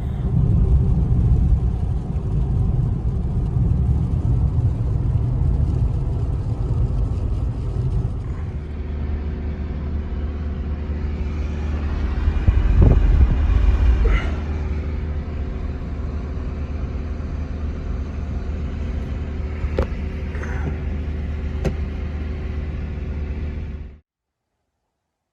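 Steady, loud low rumble of a motor vehicle running, with an engine hum that changes character about eight seconds in; it cuts off abruptly near the end.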